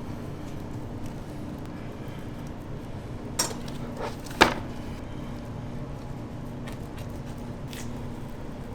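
Kitchen clatter of utensils and dishes: two sharp knocks about a second apart near the middle, the second the loudest, with a few fainter clicks, over a steady hum of kitchen equipment.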